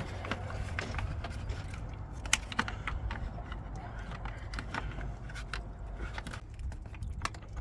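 Scattered small clicks and taps of hand tools and metal fittings being worked while fitting a car battery, over a steady low background rumble.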